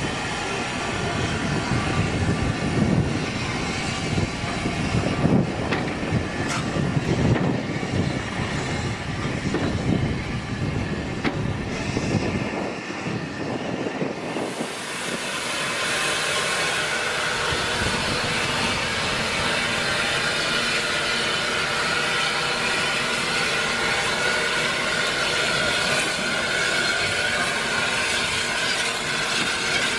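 Passenger railway coaches rolling past along the platform, their wheels rumbling and knocking unevenly over the rail joints. After a cut about halfway through, a steadier train sound with a continuous hiss.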